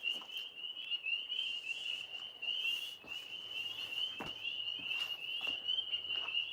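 A chorus of frogs calling steadily: many short, high trilled calls that overlap into a continuous shrill pulsing, with a few faint clicks.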